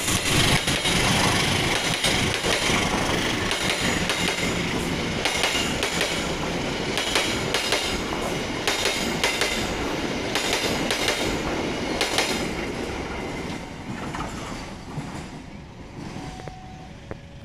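Passenger coaches of the Pasundan train rolling past at speed on a run-through without stopping, their wheels clattering over rail joints in a steady run of clicks. The sound fades over the last few seconds as the end of the train moves away.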